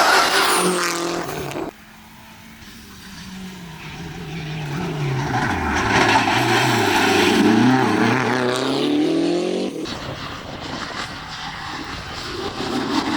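Lancia Delta rally car engine running hard, its pitch climbing and dropping as it accelerates and changes gear, getting louder as it comes closer. The sound cuts off abruptly twice, about two seconds in and near ten seconds in.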